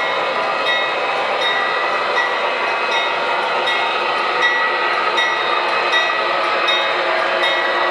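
MTH Premier O gauge ES44AC diesel locomotive running on track: a steady diesel engine sound from its onboard sound system mixed with rolling wheels. Short high ticks repeat about every three-quarters of a second.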